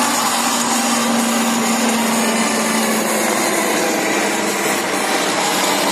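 Jet aircraft engine noise from a flypast: a steady rushing whine with a low hum that fades about halfway through.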